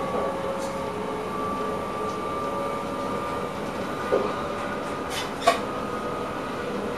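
Passenger train running, heard from inside the driver's cab: a steady rumble with a constant whine of several steady tones. Two short knocks come about four seconds in and again a second and a half later.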